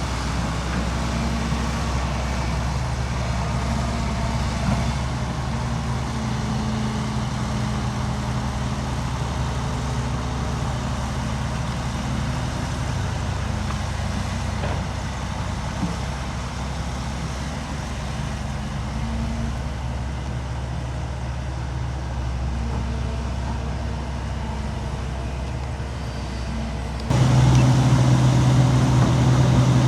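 Heavy diesel engine running steadily under load. About three seconds before the end it cuts suddenly to a louder, deeper engine note.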